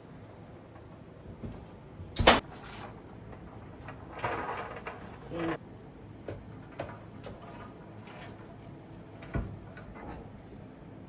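Kitchen handling of a sheet pan of freshly roasted hazelnuts just taken out of the oven: a sharp knock about two seconds in, a short noisy rush of about a second and a half around the middle, and another knock later.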